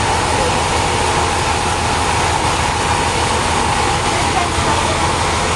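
Sawmill machinery running: a loud, continuous mechanical din with a steady whine running through it.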